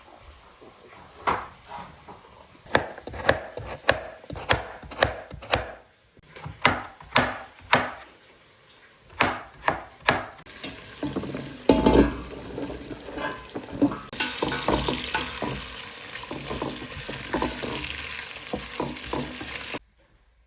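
Knife chopping on a cutting board, sharp strikes about two a second in short runs, followed by a steady hissing that stops abruptly near the end.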